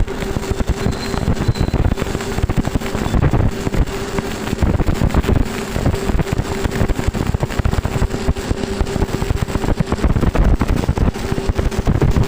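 Arc welding on steam pipe: the welding arc crackles and sputters irregularly, starting abruptly right at the start, over a steady machine hum.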